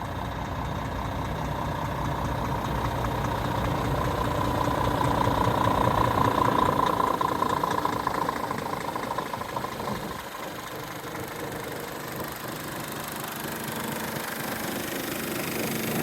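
Scania R450 truck's diesel engine idling steadily, its level swelling, dropping back about ten seconds in, then rising again.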